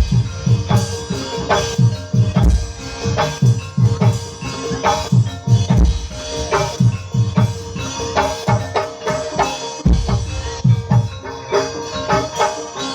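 Javanese gamelan music for an ebeg horse dance: hand drums beating a quick, dense rhythm under ringing struck bronze keys and gongs.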